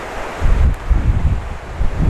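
Typhoon wind gusting hard against the microphone: heavy low buffeting that starts about half a second in and comes in repeated gusts over a steady hiss of wind.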